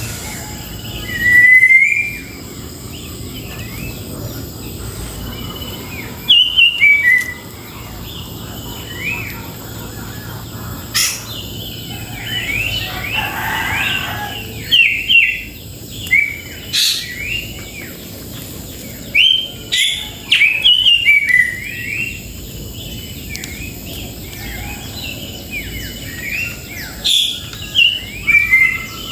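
Grey-cheeked bulbul (cucak jenggot) singing in loud bursts of short chirping notes, phrase after phrase, over a faint steady low hum.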